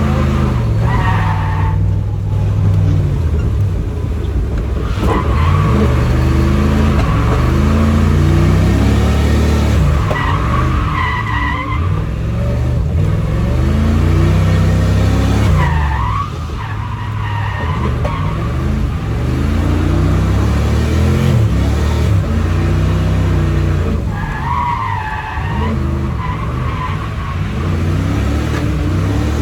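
A drift car's engine revving up and falling back again and again, with the tyres squealing several times as the car slides.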